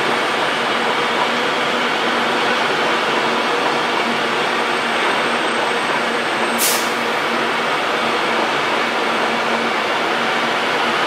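A train running close by: a steady, even noise with a faint low hum and no build-up or fade. A brief high hiss comes about six and a half seconds in.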